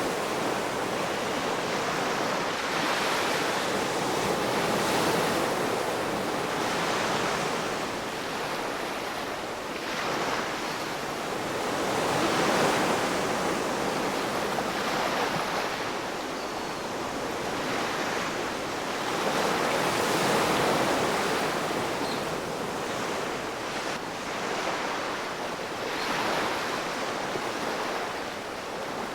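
Ocean waves breaking and washing up the shore, a continuous rush that swells and eases in slow surges every few seconds.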